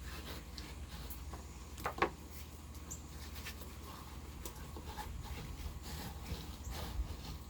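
Knife blade working between a blacktip shark fillet and its sandpaper-like skin: faint, irregular scraping and rubbing, with one sharper, louder scrape about two seconds in.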